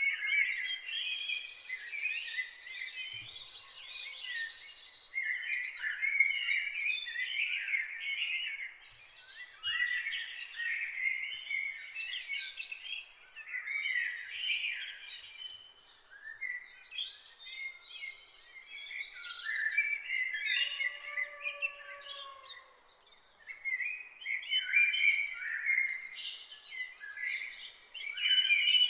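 A dawn chorus of many songbirds chirping and trilling at once, their calls overlapping without a break, with one lower, arching call about two-thirds of the way through.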